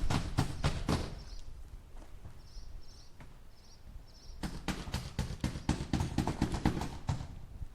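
Hammer driving a nail into wood with quick repeated blows, about five a second, in two runs: one stopping about a second in, another from about four and a half seconds to seven seconds. Faint short high chirps sound in the pause between.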